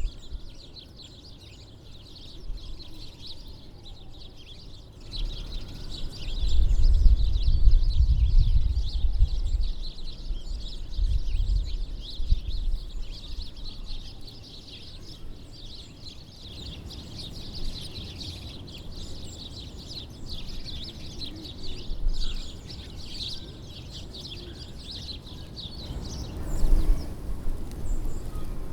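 A flock of small songbirds chirping and twittering continuously, many calls overlapping. A low rumble swells under them a few seconds in and again near the end.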